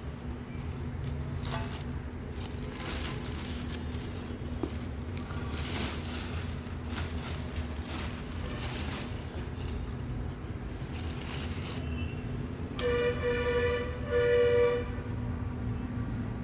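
A steady low hum, with two short horn blasts close together near the end; the second blast is the loudest sound.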